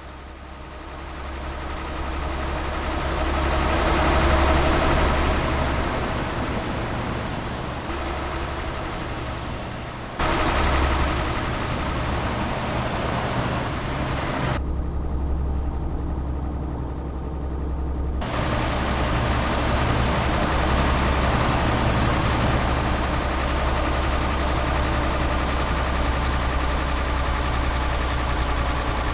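Tanker truck's diesel engine running as it drives, heard from inside the cab as a steady low hum. It grows louder over the first few seconds and jumps in level suddenly about ten seconds in, with a duller, muffled stretch of a few seconds past the middle.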